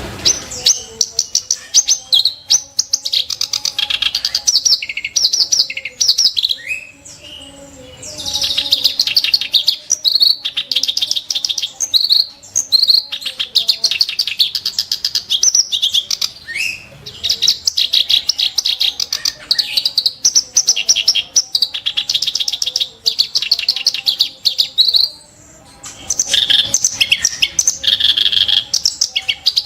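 Reed warbler (kerak basi) singing long phrases of rapid, harsh, chattering notes, with short pauses about seven and twenty-five seconds in.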